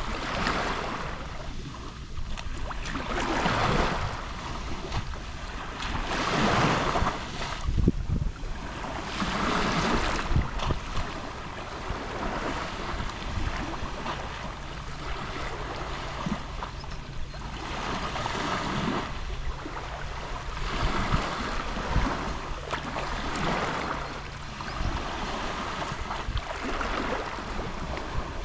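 Small Mediterranean waves lapping on the shore: a wash of surf that swells and falls away every two to three seconds.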